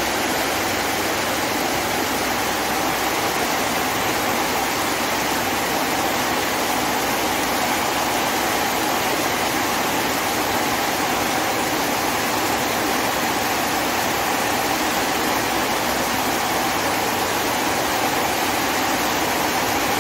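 Heavy rain pouring down: a dense, even hiss that holds steady throughout.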